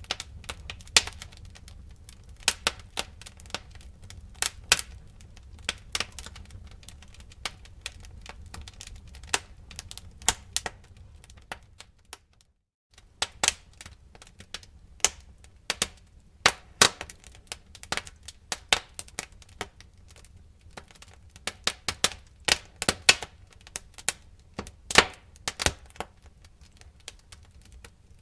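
Wood fire crackling: irregular sharp pops and snaps over a soft low rumble. The sound drops out for a moment about twelve seconds in, then goes on.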